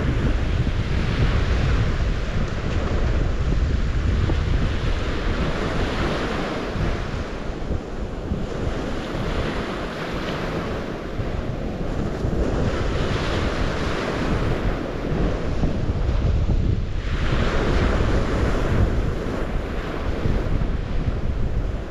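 Waves on the St. Lawrence River washing in and drawing back, swelling and easing every few seconds, with wind rumbling on the microphone.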